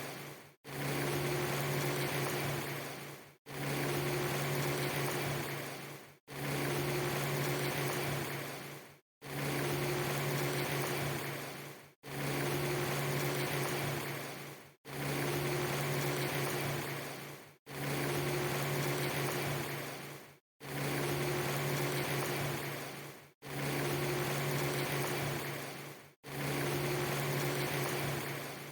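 Steady rushing noise with a low hum, a snippet under three seconds long repeated about ten times. Each repeat fades out and cuts to silence for a moment before starting again.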